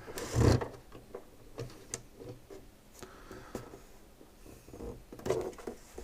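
Handling noise from a partly disassembled SodaStream soda maker being moved and handled on the bench: a clunk about half a second in, then scattered light knocks and rubs of plastic parts, and another clunk near the end.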